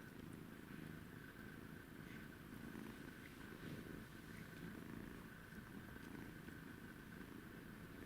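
Scottish kitten purring, faint and steady.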